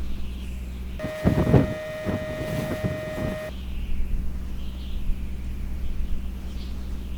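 A power driver whines steadily for about two and a half seconds, starting about a second in, backing out a bolt from the RV roof air conditioner's shroud. A steady low hum runs under the rest.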